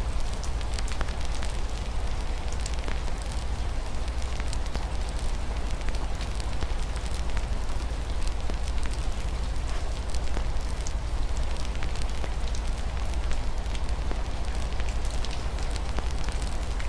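Wood fire in a fireplace crackling, with many small irregular pops over a steady low rumble, mixed with a soft steady hiss of rain on a window.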